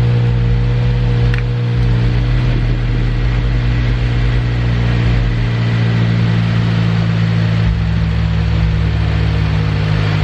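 A car engine idling steadily, running as the donor car in a jump-start.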